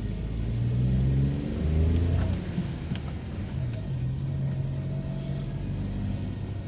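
Car engine accelerating, its pitch rising over the first two seconds or so, then running steadily.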